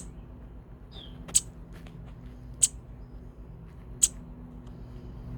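A small songbird giving short, sharp, high chip calls, one about every 1.3 seconds, with a single falling note about a second in.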